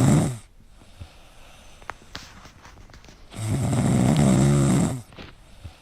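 A dog snoring: two long snores, the second starting a little over three seconds in.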